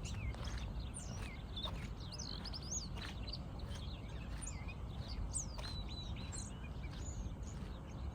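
Songbirds chirping and singing, many short high whistled notes overlapping one another, over a steady low rumble.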